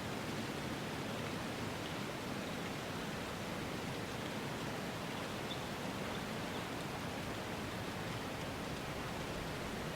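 Steady, even rushing noise of an outdoor ambience bed, with a faint tick about halfway through.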